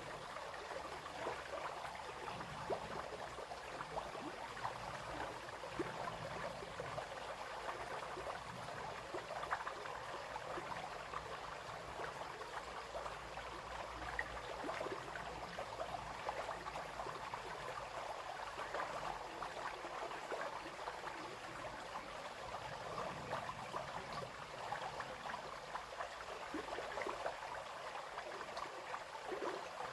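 Small brook flowing and babbling steadily over stones, with a continuous splashing and trickling.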